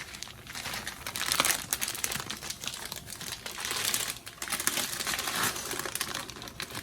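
Crinkling and rustling of a plastic package of dry fettuccine being handled, with light clicks, in uneven bursts.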